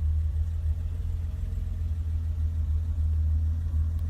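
1988 BMW 325's straight-six engine idling with a steady, even low rumble, still warming up after a cold start.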